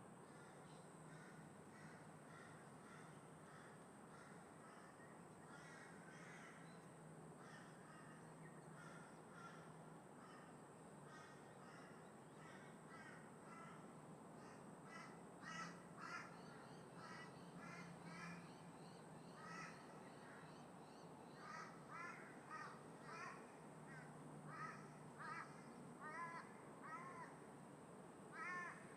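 Crows cawing, many short calls, faint at first and coming thicker and louder in the second half, the loudest just before the end. A steady low background rush runs under them.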